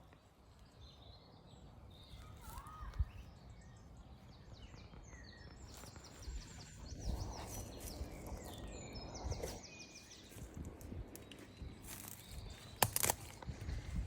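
Small birds singing outdoors, with a short whistled note early on and rapid high trills in the middle, over a faint steady background hum. A few sharp clicks and some rustling also sound.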